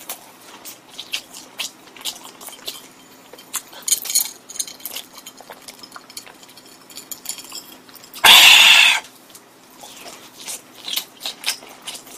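Close-miked eating sounds: many short wet chewing and mouth clicks from someone chewing seasoned fried potato wedges, with a sip from a glass. About eight seconds in comes a single loud breathy rush of air lasting under a second.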